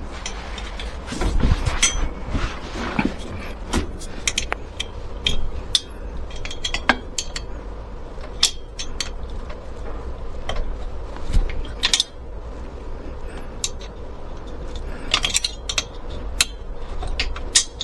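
Small metal tools and hardware being handled: irregular clinks, clicks and knocks, a few louder ones about 2, 8.5 and 12 seconds in and a cluster near the end.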